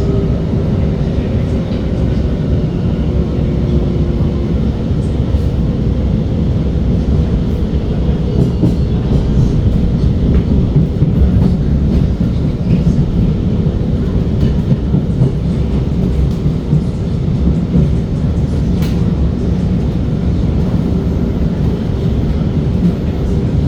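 Cabin noise of an SMRT R151 metro train running between stations: a steady low rumble of wheels on the track. A faint motor tone fades out in the first few seconds.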